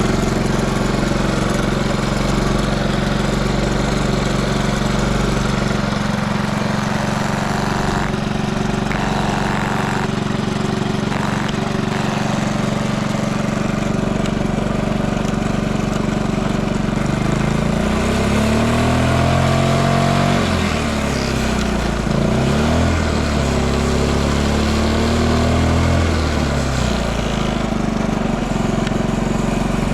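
Early Honda C70 'andon' Cub's 72 cc single-cylinder four-stroke engine idling steadily, then revved up and down several times from a little past halfway, before settling back to idle. It runs cleanly with no abnormal noise and revs up freely.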